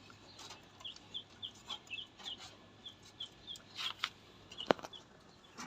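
Young chickens peeping: a run of short, high, falling cheeps, about three a second, with faint rustling and one sharp click near the end.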